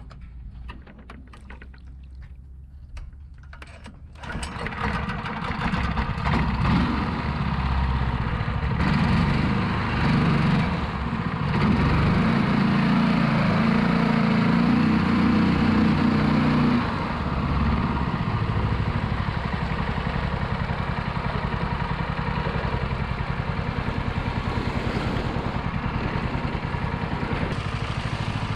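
Longtail mud motor engine throttled up about four seconds in, then running hard and steady at high revs while pushing an 8-inch hurricane prop through thick grass. It eases off slightly partway through.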